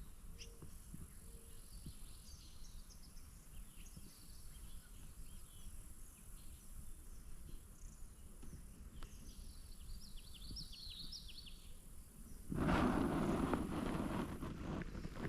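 Quiet pondside ambience: songbirds chirping faintly now and then, with a faint steady insect drone. Near the end a louder burst of rustling noise takes over for about two and a half seconds.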